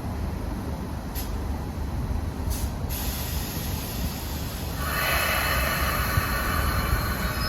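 A train rumbling on the station tracks. A high hiss comes in about three seconds in, and a louder rush of wheel and brake noise follows from about five seconds in.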